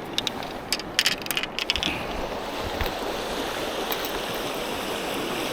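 River water rushing steadily, with a quick cluster of sharp clicks and rustles in the first two seconds.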